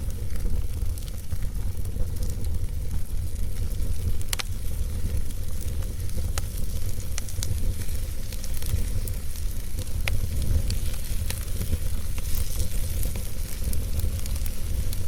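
Logs burning in a fireplace: a steady low rumble and hiss of the fire with scattered sharp crackles and pops, one louder pop about four seconds in.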